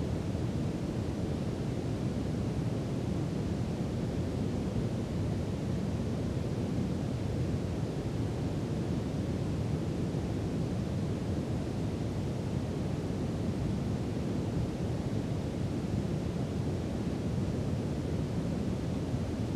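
Brown noise: a steady, deep rushing hiss, strongest in the lows and unchanging throughout.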